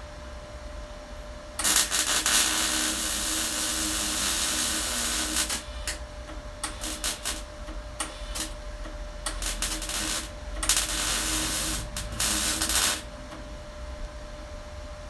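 MIG welder arcing: a continuous run of about three and a half seconds, then a string of short tack-weld bursts, then another run of about two seconds. Each starts and stops abruptly.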